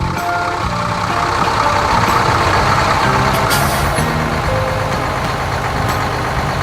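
Loud, steady rumble of a heavy vehicle engine, a cartoon tractor or truck sound effect, with a few musical notes faintly beneath it.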